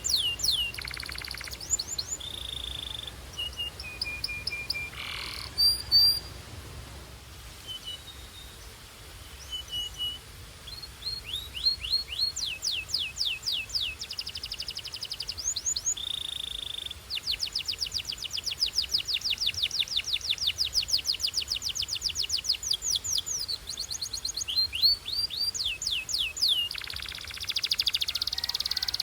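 Belgian canary singing: phrases of quick downward-sweeping notes and short steady whistles, with a long fast trill of rapidly repeated notes lasting several seconds in the middle.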